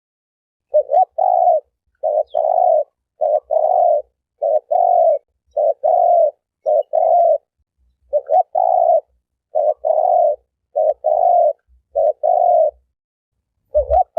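Spotted dove cooing over and over, about one call a second. Each call is a short note followed by a longer, lower coo, with silence between calls.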